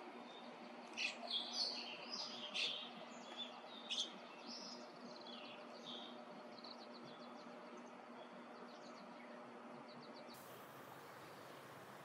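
Birds calling: a cluster of short, high chirps in the first few seconds, then a faint run of quick repeated ticking notes.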